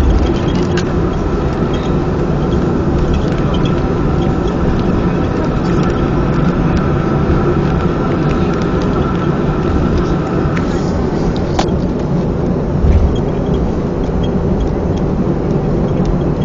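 Boeing 737-300 cabin noise on the ground after landing: the CFM56 jet engines idle with a steady low rumble and a thin whine that fades out about ten seconds in. A single sharp click comes shortly after.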